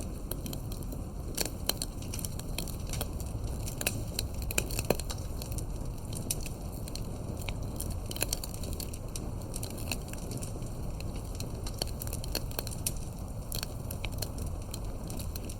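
Campfire burning: a steady low rumble of flames with irregular crackles and sharp pops of burning wood, a few louder pops now and then.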